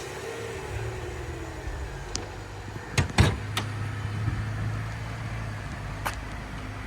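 Car engine running steadily at idle, with several sharp clicks and knocks over it, the loudest a pair about three seconds in.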